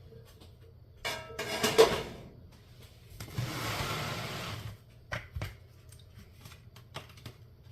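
Kitchen handling sounds as diced cooked chicken is added to the salad bowl: a clatter of a utensil or dish with brief ringing about a second in, a longer scraping rustle around the middle, then a few light knocks.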